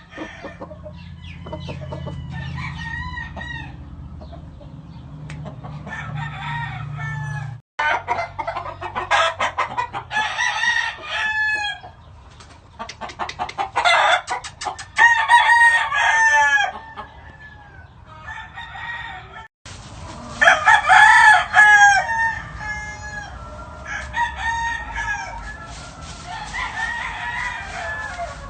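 Gamefowl roosters crowing and clucking, several birds calling in turn and overlapping, in repeated loud bouts.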